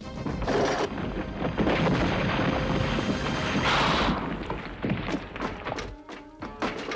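Cartoon fight sound effects: heavy thuds and impacts with a loud rush of noise a little under four seconds in, over action music, then sharper separate strikes near the end.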